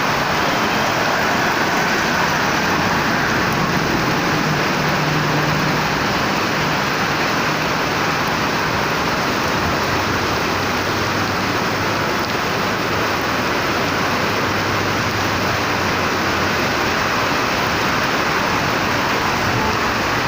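Heavy tropical rain and runoff water making a loud, steady hiss, with a low hum underneath that comes and goes.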